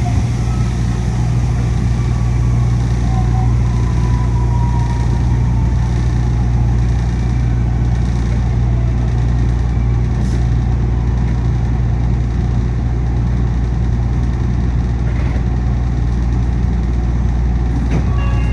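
Steady cabin noise inside a Yui Rail monorail car while it runs: a constant low drone from the car and its air conditioning. For a few seconds near the start, a faint whine slides in pitch.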